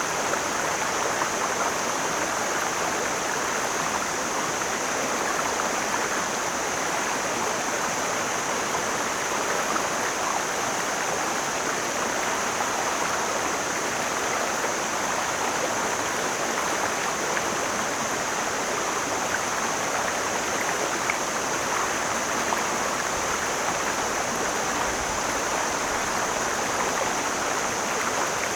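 Mountain stream flowing: a steady, even rush of water with no breaks.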